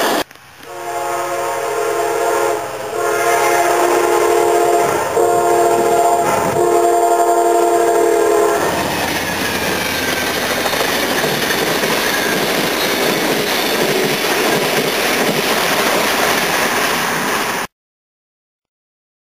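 An Amtrak GE P42 diesel locomotive's air horn sounds four chord blasts, long, long, short, long, the signal sounded for a grade crossing. The train then rolls past with a loud, steady rumble of wheels on rail, and the sound cuts off abruptly near the end.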